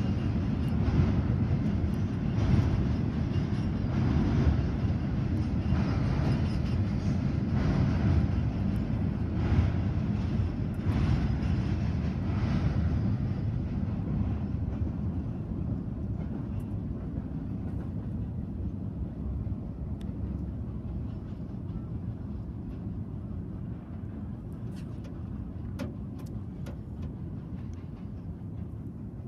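Norfolk Southern double-stack container freight train rumbling across a low rail bridge, fading slowly as it moves away. A faint regular knock comes about every second and a half during the first half.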